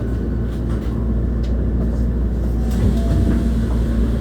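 Running noise inside a Hankyu 1300-series electric train car with Toyo IGBT-VVVF traction equipment: a steady rumble with low motor tones as the train brakes into a station.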